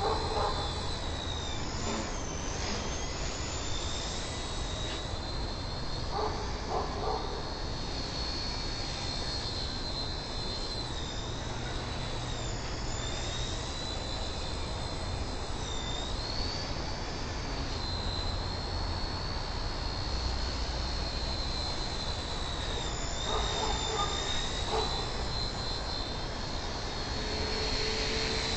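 XK K100 micro RC helicopter's motors and rotors giving a high steady whine that dips briefly in pitch several times as it is flown, over wind rumbling on the microphone.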